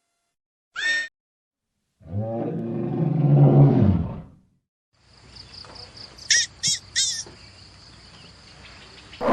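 Separate animal calls with silent gaps between them: a short high call about a second in, then a loud low roar lasting about two seconds, then three quick high-pitched calls in a row over a faint steady high tone.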